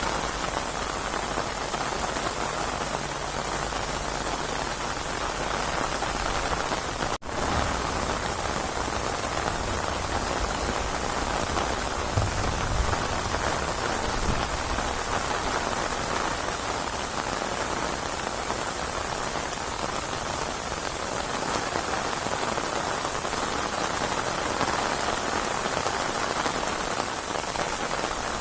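Steady rain of a rainstorm pouring down, a dense even hiss of drops. The sound drops out for an instant about seven seconds in.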